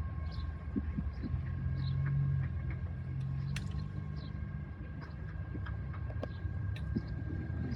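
Freight train cars rolling past: a steady low rumble with two faint, steady high-pitched squeal tones and scattered clicks and squeaks.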